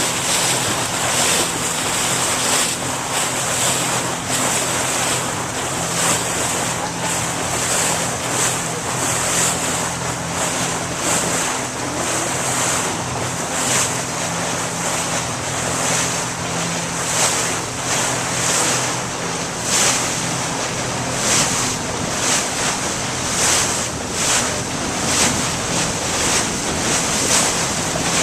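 Motorboat under way: a steady low engine hum under loud rushing water and spray as the hull runs through the waves, with wind buffeting the microphone.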